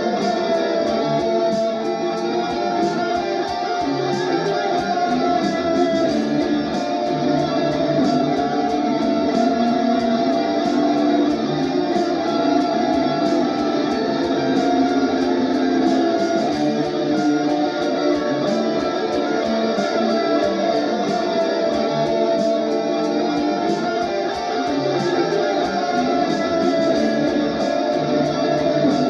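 Electric guitar played through a Valeton GP-200 multi-effects processor, improvising continuously over a steady drum-machine beat.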